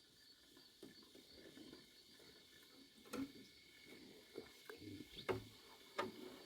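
Faint scattered clicks and light knocks, the clearest about three, five and six seconds in, over a faint steady high-pitched tone.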